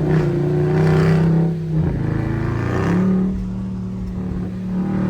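SRT Jeep's V8 engine under hard acceleration, its exhaust holding a steady note that dips briefly about two seconds in, then settles on a higher note. The wheels are spinning on the wet road even in sport mode.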